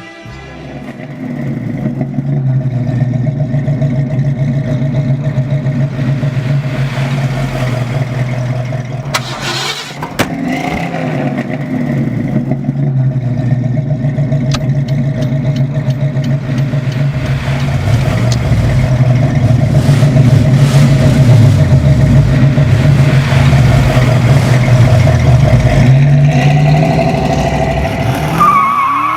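Car engine running loudly and steadily, with a short break about ten seconds in. Through the second half it is revved repeatedly, the pitch rising and falling with each rev.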